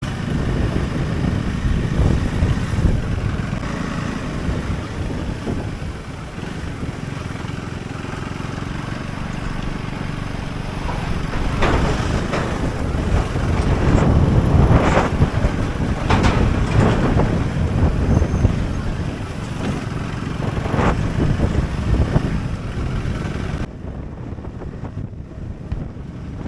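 Wind rushing and buffeting over the microphone of a moving motorcycle, with the road and engine noise of the ride underneath; the gusts grow stronger partway through.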